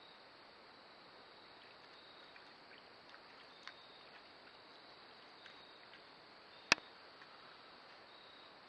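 Faint outdoor ambience: a steady hiss with short high insect chirps recurring about once a second and a few light ticks, broken by one sharp, loud click about two-thirds of the way through.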